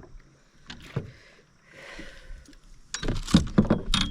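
Kayak being paddled with half a paddle: a soft swish of a stroke through the water about two seconds in, then a run of loud knocks near the end.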